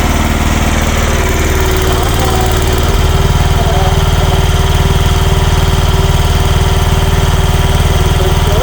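Small engine of a mini excavator running steadily while the machine is worked. About three seconds in, its note changes and it gets a little louder.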